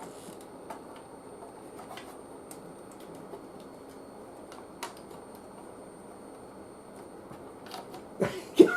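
Faint scattered clicks and taps of hands working on a TV chassis's wiring against a steady low hiss, with a few louder knocks near the end.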